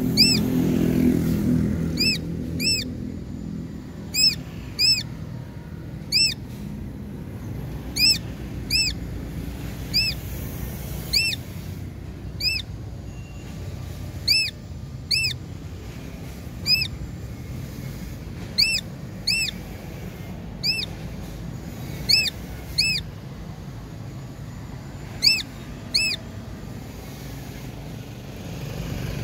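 A bird calling over and over in short, sharp, high notes, each rising and falling, often given in quick pairs at irregular intervals. A low engine hum runs underneath and is loudest at the start.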